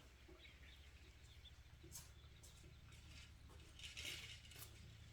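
Near silence: a faint steady low hum with a few light ticks.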